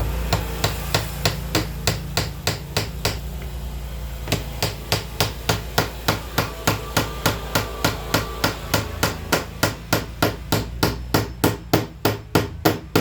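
Hammer driving nails into wood with quick, even, light blows, about three to four a second, pausing briefly about three seconds in and then carrying on. The nailing plausibly fixes the wood stops that hold the door's new glass pane.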